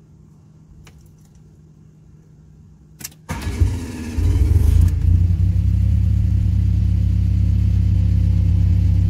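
Fiat Punto engine started with the key: a click, about a second of starter cranking, then the engine catches with a brief flare in revs and settles into a steady idle.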